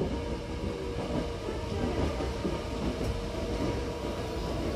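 Interior running noise of a Hankyu 9000-series electric train at speed: a steady rumble of wheels on track, with a steady hum tone over it that fades near the end.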